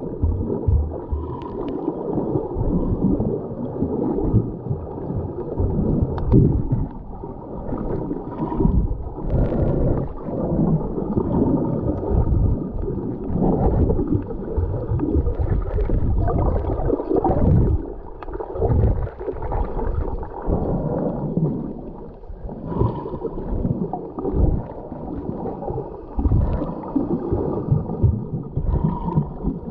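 Underwater sound heard through a GoPro's waterproof housing: a scuba diver's regulator breathing and exhaled bubbles gurgling in irregular muffled surges.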